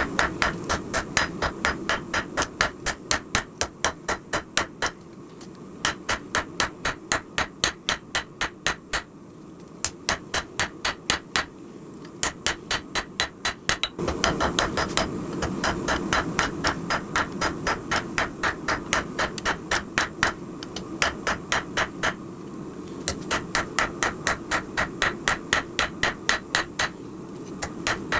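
Hand hammer striking hot steel on an anvil while forging a knife blade: quick runs of ringing blows, about three a second, broken by short pauses, over a steady low background rumble.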